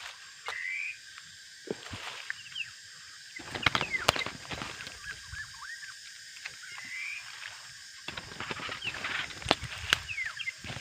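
Black-naped oriole (kepodang) calls: short whistled slurred notes at irregular intervals, with scattered clicks and a brief rustle about four seconds in.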